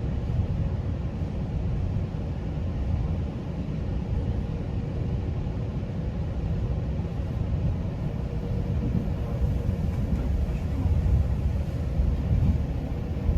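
GO Transit commuter train in motion: a steady low rumble of wheels on the track, with a faint steady hum above it.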